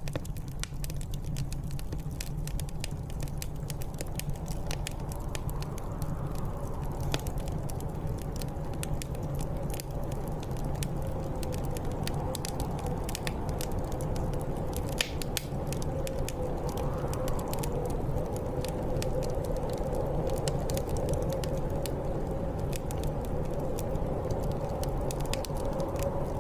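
Wood fire crackling in a fireplace with frequent sharp pops, over a steady low rumble. Blizzard wind whistles through it in a wavering tone that swells a couple of times.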